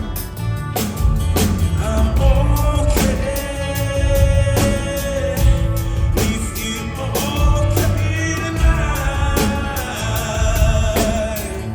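Live rock band playing: a singer holds long notes over electric guitar, bass and a drum kit keeping a steady beat.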